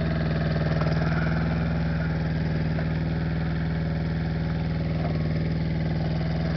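Mini excavator engine running at a steady idle-like speed, with an even unchanging pitch.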